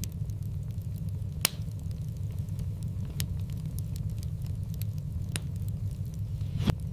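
Wood fire burning in a fireplace: a steady low rumble of flame with sharp crackles and pops scattered through, the loudest pop about a second and a half in.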